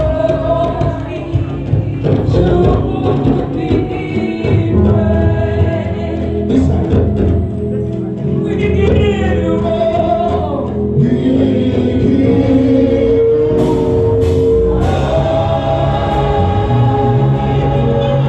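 Gospel music with singing: a congregational praise song over a full band, with the voices carrying a sustained melody.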